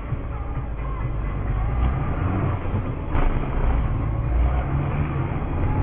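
Steady low rumble of a moving car heard from inside the cabin through a dash camera's narrow-band microphone, with a single short knock about three seconds in.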